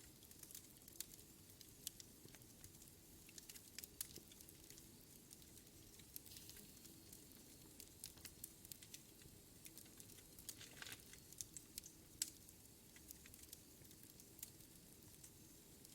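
Wood fire crackling in a fireplace: irregular sharp pops and snaps from the burning logs over a low, steady rumble of the flames. One pop about twelve seconds in is the loudest.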